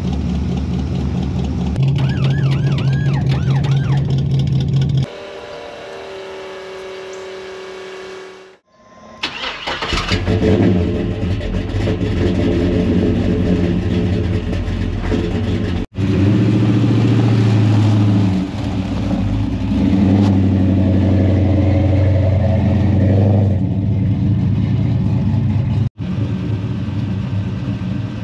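Car engines running and revving in several short clips cut together, with abrupt changes between them. About nine seconds in, an engine starts up after a brief near-silence.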